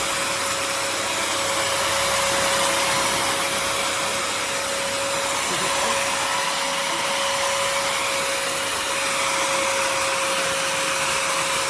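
Bissell CrossWave HydroSteam Pet wet-dry vacuum running steadily in steam mode: an even rushing of suction with a steady whine from the motor, unchanging throughout.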